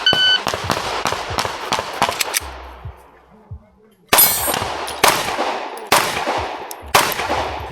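A USPSA shot timer's start beep, then a ported CZ P10C pistol firing a fast string of shots for about two and a half seconds. After a short pause come slower single shots about once a second, each followed by metallic ringing.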